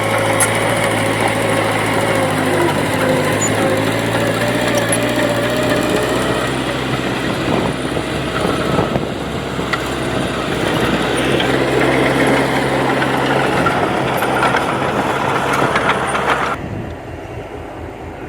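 Diesel engine of heavy earthmoving machinery running steadily under load. Near the end the sound drops abruptly to a much quieter level.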